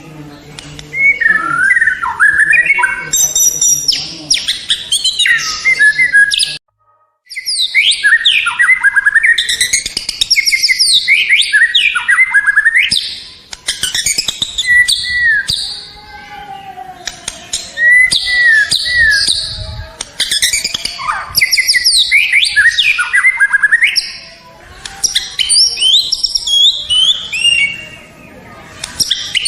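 White-rumped shama (murai batu) singing a long, varied song of rapid whistles, trills and chattering phrases, with a brief dead gap about seven seconds in.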